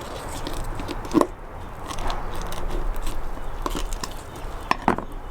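Grohmann #2 Trout & Bird knife cutting out a trout's lower fin: a few sharp crunching cuts and clicks, the loudest about a second in and a pair close together near the end.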